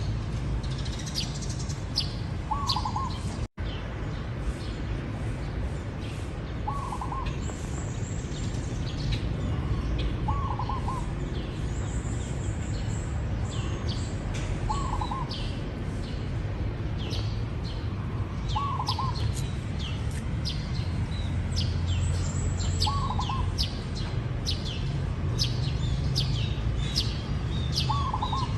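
Zebra dove cooing: a short rolling coo phrase repeated about every four seconds, seven times. Other small birds chirp high and fast throughout, over a low background rumble.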